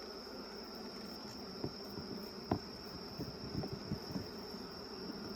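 Honeybees buzzing steadily around an open hive, with a steady high whine underneath. A few light knocks and clicks, the sharpest about two and a half seconds in, are typical of hive frames and boxes being handled.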